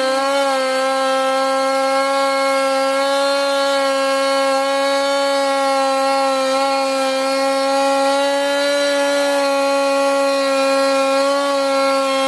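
Gasoline chainsaw running steadily at high revs in a Logosol chainsaw mill, ripping lengthwise through a log. Its pitch sags briefly a few times as it takes load.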